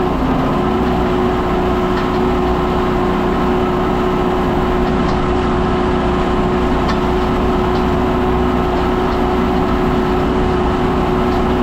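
Farm tractor engine running steadily with a constant drone.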